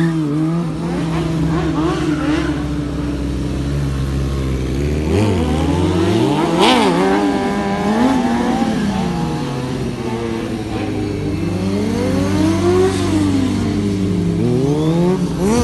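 Sport motorcycle engines idling and revving, the engine note rising and falling again and again, with more than one engine note at times.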